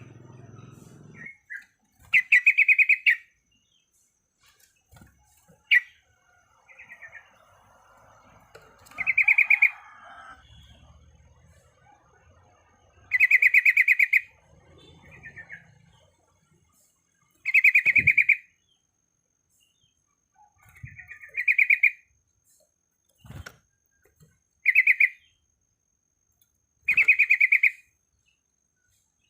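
Yellow-vented bulbul (trucuk) calling: short phrases of rapid bubbling notes, each up to about a second long, repeated every two to four seconds.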